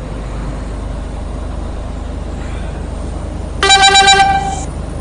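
Steady road and engine rumble inside a moving car. Near the end a car horn sounds for about a second, in a few quick pulses.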